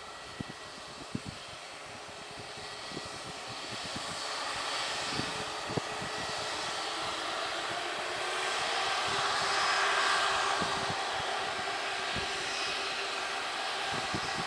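Airliner engines passing, a rushing roar that builds steadily and peaks about two-thirds of the way through, with a faint steady whine underneath.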